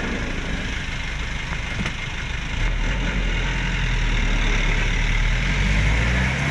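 Motor vehicle engine running under a steady hiss. The low engine sound grows louder about two and a half seconds in.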